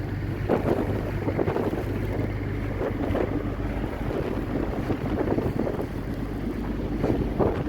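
Blizzard wind gusting against the microphone, over a steady low vehicle hum.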